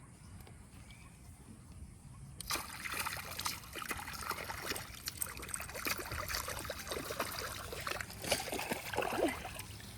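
Water splashing and sloshing. It starts suddenly about two and a half seconds in as a busy run of many small splashes and drips, and eases off near the end.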